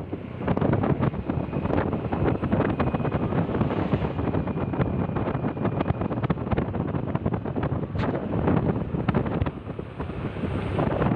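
Heavy wind buffeting on the microphone, with a vehicle running beneath it, as when the camera is carried on a moving vehicle. A faint steady whistle runs through the middle few seconds.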